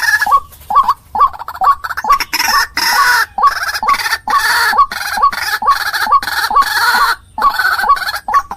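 White-breasted waterhen (ruak-ruak) calling: short hooked call notes repeated about two to three times a second, over a harsh, raspy chorus.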